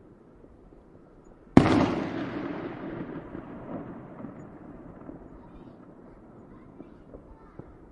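A single loud firework bang about one and a half seconds in, its echo rolling away and fading over several seconds, with a few faint small pops.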